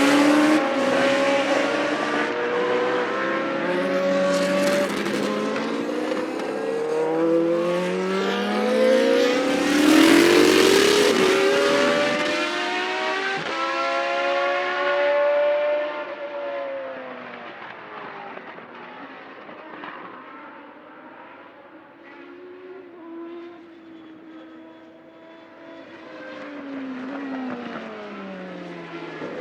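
Classic Formula 1 race car engine revving hard, its pitch climbing and dropping again and again through gear changes as the car passes close by. About halfway through it fades into the distance, then the sound builds again near the end.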